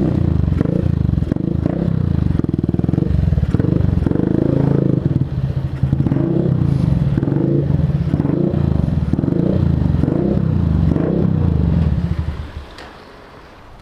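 125cc motorcycle engine running under way, its pitch rising and falling with the throttle, then dying away about twelve seconds in as the bike stops.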